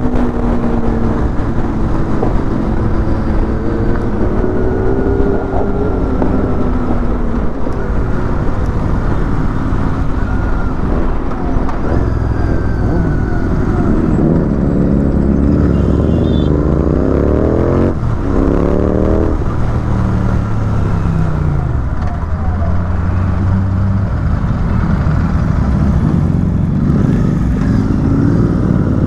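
Motorcycle engine on the move, revving up and easing off, with its pitch rising and falling over a steady low rumble. About halfway through, the pitch climbs in several quick rising sweeps.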